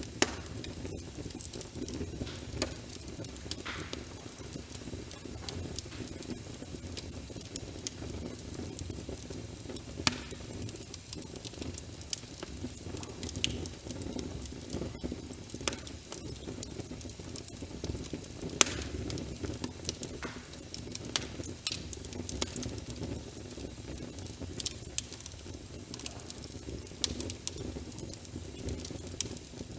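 Wood fire crackling in a fireplace, with irregular sharp pops and snaps, some much louder than the rest, over a steady low rumble of flames and rain.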